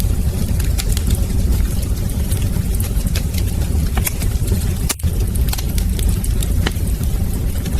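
Wood fire crackling, with many small sharp pops over a steady low rumble. The sound briefly drops out about five seconds in.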